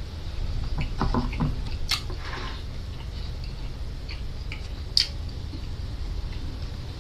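Eating sounds of a person chewing fresh seaweed: small mouth clicks and smacks, a cluster about a second in and sharp single clicks near two and five seconds, over a steady low hum.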